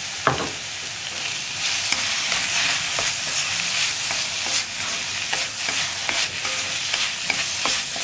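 Chopped tomatoes and spice masala sizzling in hot oil in a wok while a wooden spatula stirs them, with scrapes and knocks of the spatula against the pan.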